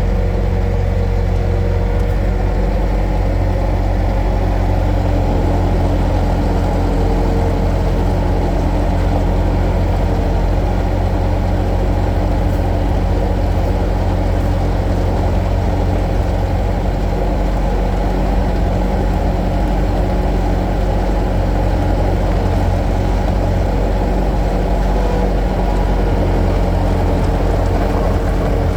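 Skid steer loader's engine running steadily at a constant speed, with a low even drone and no revving or knocks.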